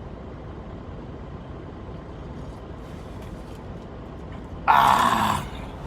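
Semi truck's engine running with a steady low rumble as the truck pulls out, and a loud, short burst of noise lasting well under a second near the end.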